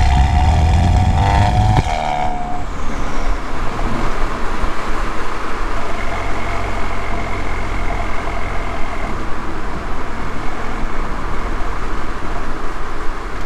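Audi A3's turbocharged 2.0T four-cylinder exhaust, with an aftermarket downpipe and resonator delete, pulling hard under acceleration, then cutting off sharply about two seconds in. After that it settles to a steady cruising drone over road noise.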